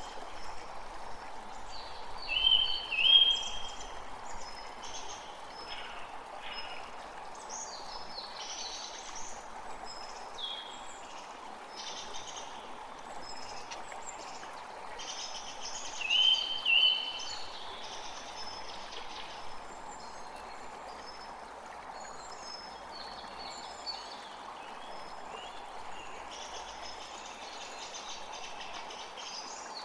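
Birds singing and calling over a steady rush of flowing water. The loudest is a short two-note call, heard a few seconds in and again about halfway through.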